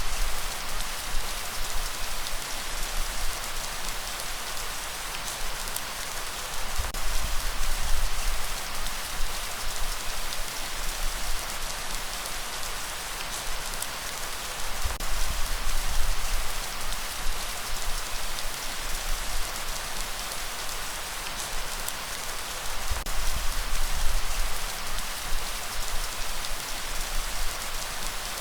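Steady rain falling on a surface, a dense hiss of drops with fine individual patters, under a low rumble that swells every few seconds.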